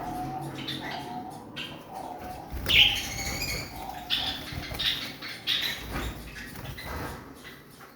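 Lovebirds giving short, repeated chirps, with wing flutters and rustling among them; the loudest chirp comes about three seconds in.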